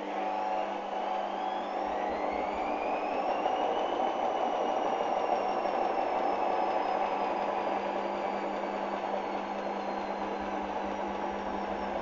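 Hoover Dynamic washing machine spinning a badly unbalanced load. The motor whine rises for about four seconds as the drum speeds up, then falls slowly as it eases off, over a steady hum.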